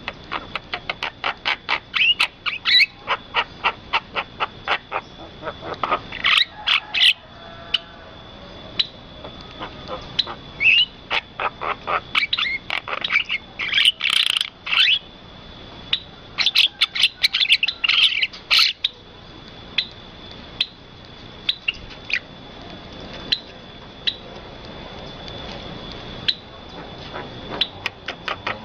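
Birds calling: runs of quick, repeated chirps, about four or five a second at first, then louder, denser clusters of calls in the middle and scattered single chirps near the end, over a steady high-pitched tone.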